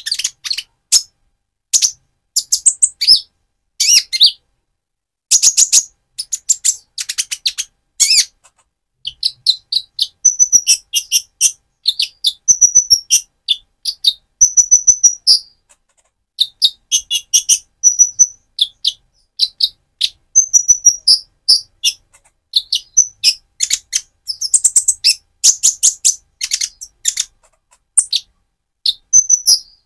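Young purple-throated sunbird (Leptocoma sperata) singing vigorously: rapid high-pitched chirps and twittering trills in short bursts, separated by brief pauses.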